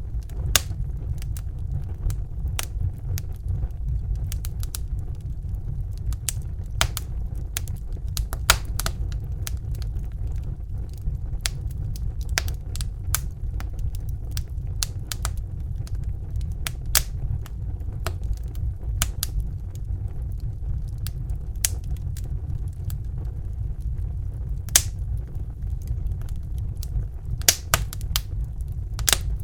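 Crackling fire: irregular sharp pops and snaps, several a second at times, over a steady low roar.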